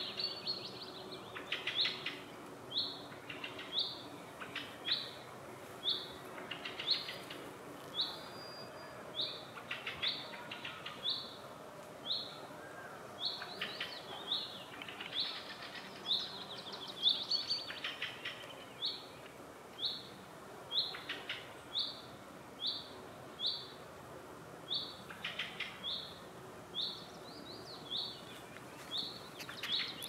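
Forest songbirds: one bird repeats a short, high call note over and over, about three notes every two seconds, while other birds add occasional lower trills and twitters.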